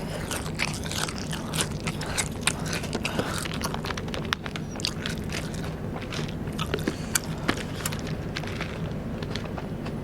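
Close-miked mouth sounds of someone chewing and crunching Vietnamese rice paper (bánh tráng) snacks, with many quick crisp crackles, over a steady low hum.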